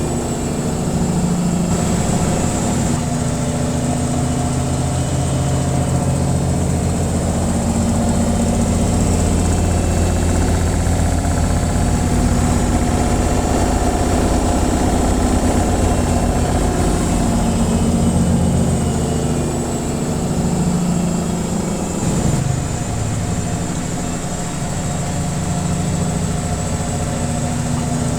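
Washing machine on its spin cycle: a steady, loud low hum from the motor and spinning drum, with a thin high whine on top.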